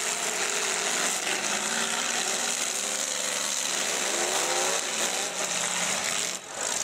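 Full-size demolition derby cars' engines running, one revving up about four seconds in, over a steady wide noise.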